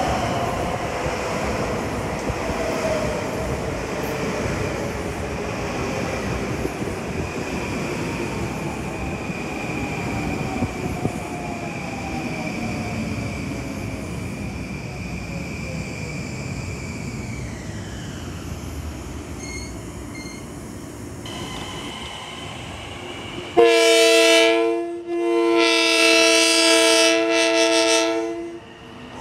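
Long Island Rail Road electric train running into the platform, its motor whine sliding slowly down in pitch as it brakes. Near the end an approaching train sounds a chord horn: a short blast, then a longer one.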